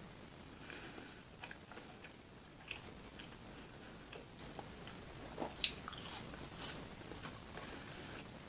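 Close-miked eating: a person biting and chewing food, with scattered short mouth clicks. The sharpest click comes about five and a half seconds in.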